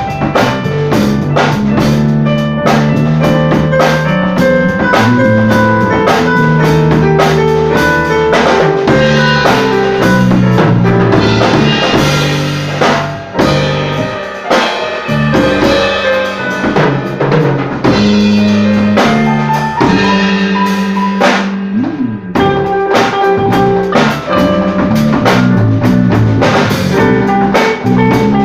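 A band playing with a drum kit keeping a steady beat over bass and keyboard, the loudness dipping briefly twice.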